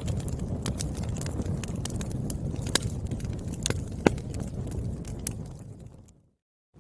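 Wood fire burning in a fireplace: a low steady rumble of flames with scattered crackles and a few sharp pops of firewood. The sound fades out to silence near the end.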